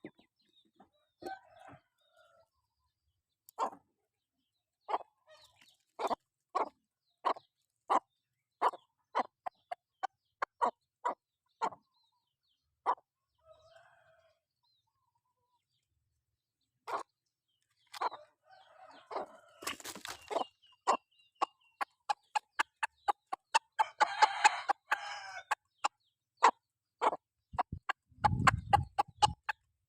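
Chickens clucking in short, separate calls, about one or two a second, growing denser in the second half. A longer, harsher call stands out about 24 seconds in.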